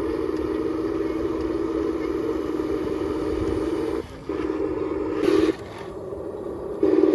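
Scale RC truck's electric drive motor and gearbox running in stretches, with a steady whine that stops briefly about four seconds in, stops again after about five and a half seconds, and comes back louder near the end.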